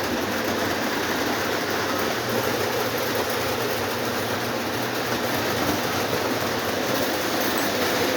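Three Lionel O27 model steam trains running together on the track: a steady hum of their electric motors mixed with the running noise of wheels on three-rail track.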